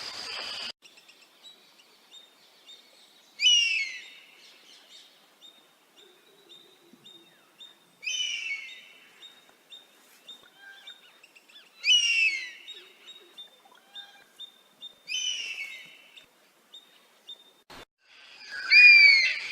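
Oriental honey-buzzard calling: five high, downward-sweeping whistled calls a few seconds apart, the last one the loudest. A faint, even series of high ticks runs behind them.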